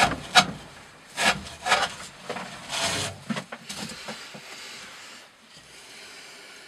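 A D2-steel Green Thorn Hati knife blade slicing through thick 20 mm rope in repeated short rasping strokes, about four cuts in the first two seconds and a longer stroke near the middle. Weaker strokes follow and die away near the end.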